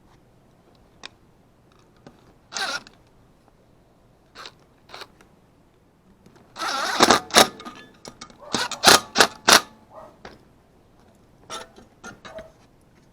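Intermittent handling noises: sharp clicks and knocks with short scraping rustles, busiest for a few seconds in the middle.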